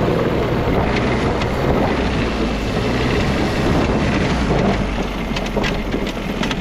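Small diesel engine of a diesel-swapped Power Wheels ride-on running hard during a burnout. A steady low engine note sits under a loud rushing noise, with scattered clicks.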